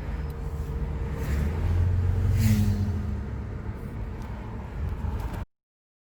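Car engine and road noise during a cruise: a steady low rumble that swells louder about one to three seconds in, then cuts off suddenly to silence near the end.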